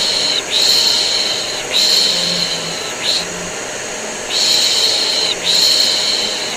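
A person shushing a baby with the 'shh' of 'piş piş', in a rhythm of three long shushes and one short one, then a pause of about a second before it starts again. Under the shushing runs the steady drone of a vacuum cleaner used as white noise.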